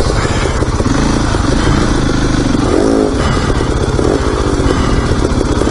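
Dirt bike engine running and being revved during a log hop, rising and falling in pitch a few times, with a steady rush of wind and riding noise.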